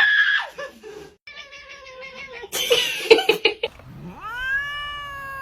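A domestic cat meowing, ending in one long drawn-out meow that rises and then slowly falls in pitch.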